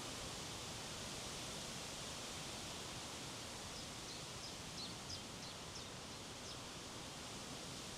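Strong wind blowing steadily. From about four seconds in to six and a half seconds a small bird gives a quick series of short, high chirps over it.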